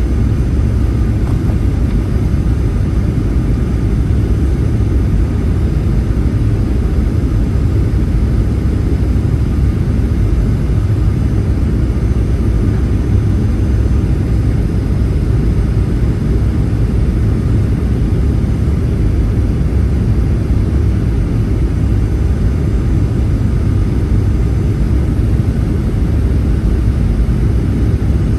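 Boeing 737-800's CFM56 engines and airflow heard inside the cabin as a steady, loud low rumble that does not change.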